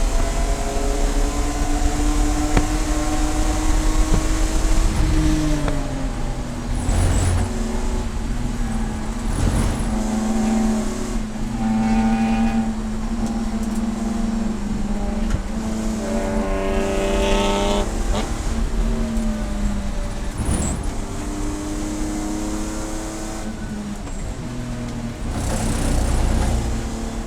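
Race car engine running hard, its pitch dropping about five seconds in as it slows, then climbing steeply again around two-thirds of the way through as it accelerates, with further drops and climbs in revs.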